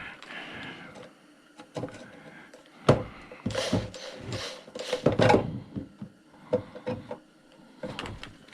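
Hand tools and metal parts being handled while working a screwdriver on a chop saw: scattered clicks and knocks, with a few short scraping rasps a little before halfway.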